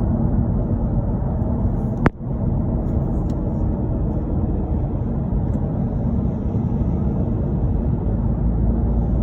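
Steady low rumble of a car's road and engine noise while driving on a highway, with one sharp click about two seconds in.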